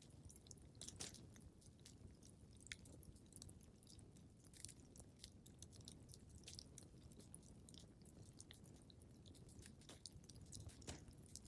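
Faint crackling of a wood fire in a fireplace: irregular sharp pops and snaps over a low steady rumble of the burning fire.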